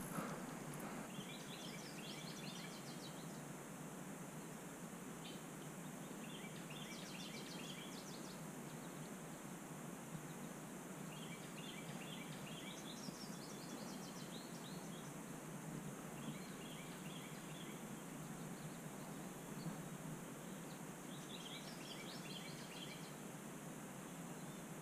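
A songbird singing short, high, chirpy phrases, repeated every four to five seconds over a steady background hiss.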